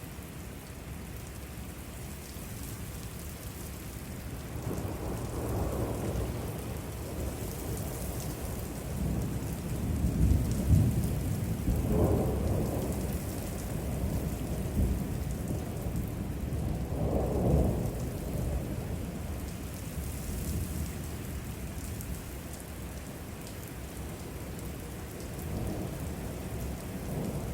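Thunder from a supercell rumbling in several long rolls over steady rain. The loudest roll comes about ten to twelve seconds in, with weaker ones before and after it.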